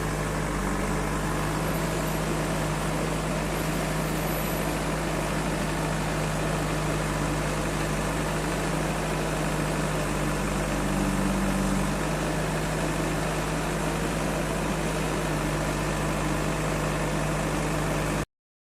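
Heavy diesel engine of a backhoe loader or tractor running steadily at idle, with a low even hum; the sound cuts off suddenly near the end.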